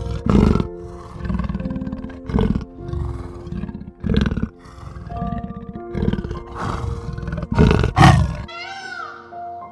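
Leopard roaring in a series of rough growling calls, about one a second, over background music. Near the end the growls stop and higher, wailing calls with a rising and falling pitch begin.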